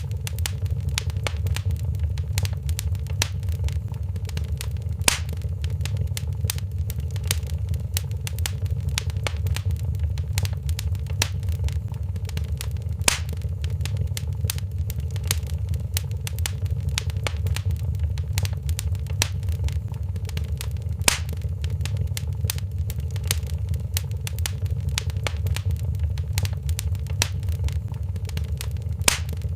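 Wood fire crackling in a fireplace: a steady low rumble of flames under constant small crackles, with a louder pop about every eight seconds.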